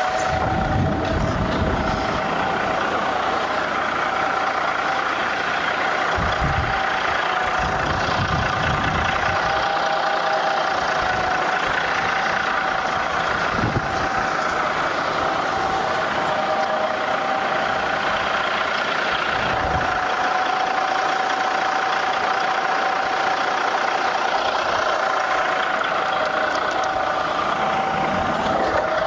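Caterpillar 3406B inline-six diesel in a 1991 Western Star dump truck idling steadily, with a steady high whine over the engine note. A few brief low rumbles come and go over it.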